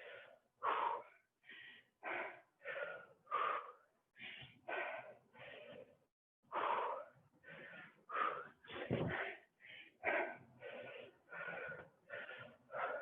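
A person breathing hard and fast during exercise, with short rasping breaths about every half second and a brief pause about six seconds in.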